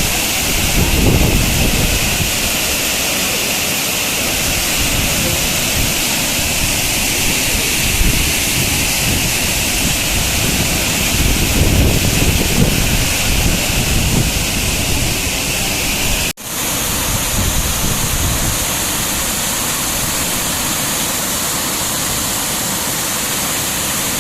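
Waterfall's rushing water as a steady, even noise, with wind buffeting the microphone now and then. About two-thirds of the way in the sound cuts out for an instant and resumes slightly changed.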